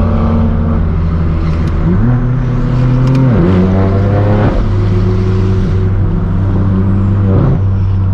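Twin-turbo inline-six of a BMW M4 F82 with a straight-piped AWE Track exhaust, droning loudly while driving. Its pitch steps up about two seconds in, climbs briefly as the revs rise around the middle, then drops back to a steady drone.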